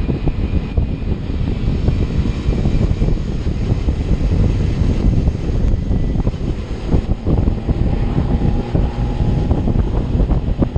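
Kawasaki Ninja 300's parallel-twin engine running under way, heard through heavy wind rush buffeting the microphone.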